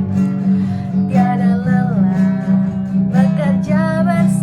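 Worship song: acoustic guitar strummed steadily under a sung melody that comes in about a second in.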